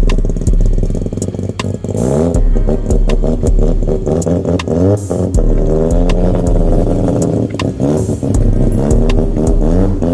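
Car engines revving up and down, with music with a heavy, even bass beat under them.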